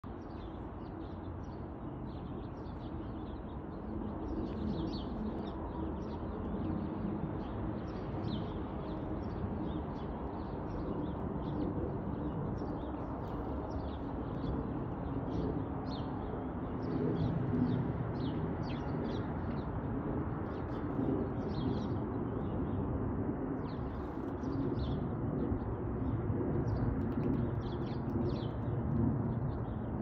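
Small birds chirping in short, quick high notes, several a second throughout, over a steady low background rumble.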